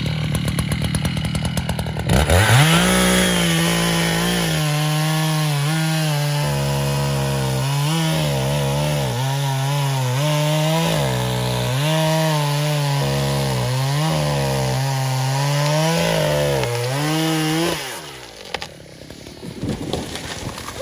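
Two-stroke chainsaw running low, then revving up about two seconds in and cutting into wood for about fifteen seconds, its pitch dipping and recovering under load. The chainsaw drops away near the end.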